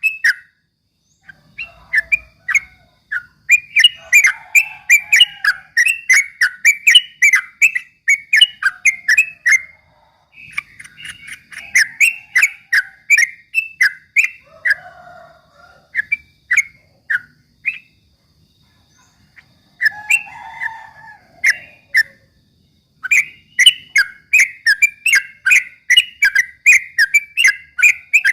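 Yellow-vented bulbul (trucukan) singing a rapid, continuous 'ropel' run of short bubbling whistled notes, several a second, in long phrases broken by a few short pauses.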